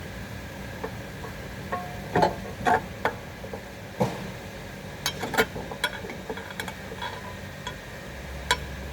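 Scattered metal clinks and knocks of hand tools and parts being handled during car suspension work, a few ringing briefly, over a steady low hum.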